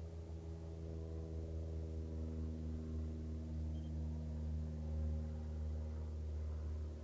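Luscombe's small piston aircraft engine running steadily at low power, a low drone with its overtones.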